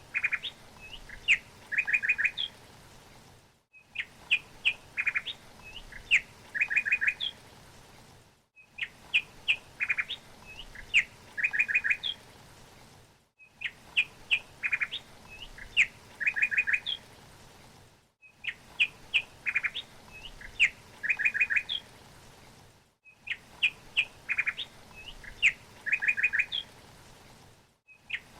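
Small songbird singing: a phrase of sharp high chirps followed by a couple of quick trills, repeated identically about every five seconds with a brief gap of silence between repeats, as in a looped recording.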